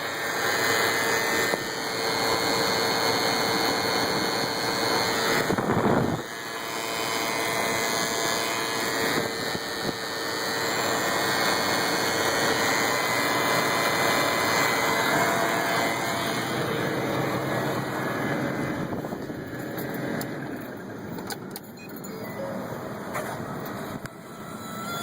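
2012 Ford F-350 running with a loud, steady screech from a black part bolted to the top of the alternator, one with two vacuum lines and an electrical connector; the owner has not identified the part. The sound dips briefly about six seconds in and falls off near the end.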